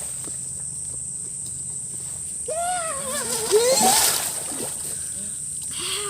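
Steady high-pitched cricket and insect chorus. About two and a half seconds in, a drawn-out wavering vocal cry rises over it for about two seconds, with a louder noisy burst near its end.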